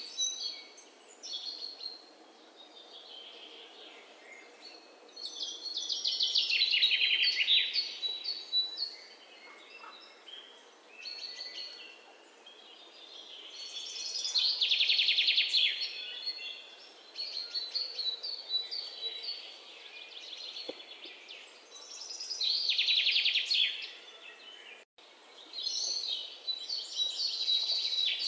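Songbirds singing: one bird repeats a loud, rapid, high-pitched trill of about two seconds roughly every eight seconds, with shorter chirps from other birds in between.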